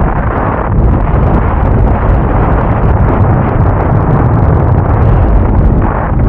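Motorcycle on the move: a loud, steady rush of wind buffeting the microphone, with the engine running underneath.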